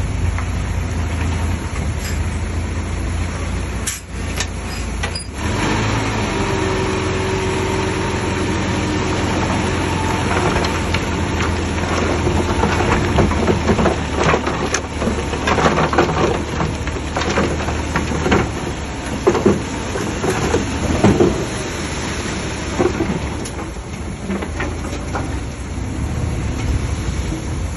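Heavy diesel earthmoving machinery running steadily with a low rumble. From about halfway through there is a spell of clanking and knocking.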